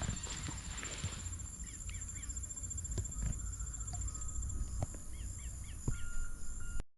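Outdoor ambience: a cricket's steady high trill throughout, with small birds giving short repeated chirps in two bursts and a few faint clicks. The sound cuts off abruptly at the end.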